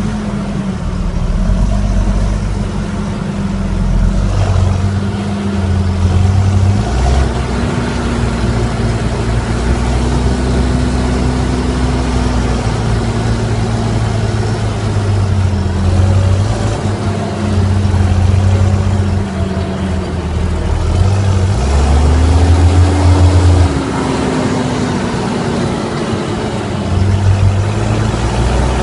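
Fendt 720 tractor's six-cylinder diesel running with no exhaust fitted, loud and unmuffled. Engine speed rises and falls, with a rev-up about two-thirds of the way through and another near the end.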